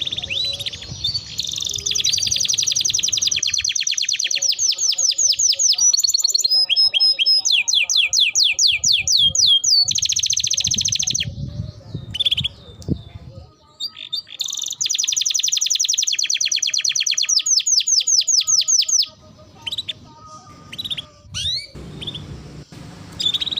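Domestic canary singing: long rolling trills of fast repeated notes and chirps, broken by a couple of short pauses.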